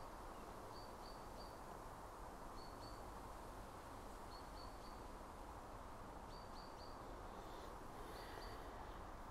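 Faint outdoor background hiss with a small bird repeating short high chirps in groups of two or three every second or two.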